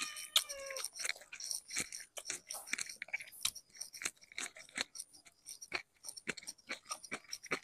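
A person eating close to the microphone, chewing soft food with an irregular run of short wet smacks and clicks, several a second.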